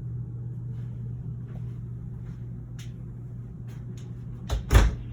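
Pantry cupboard door being shut, with two quick knocks near the end, over a steady low hum.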